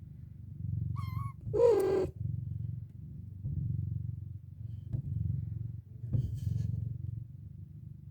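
Domestic cat purring, rising and falling with each breath. About a second in comes a short high mew, then straight after it a louder, lower, falling meow.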